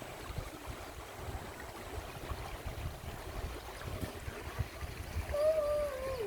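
Running water, like a small stream, as a steady noisy wash with a low rumble. Near the end a brief wavering tone comes in and falls in pitch.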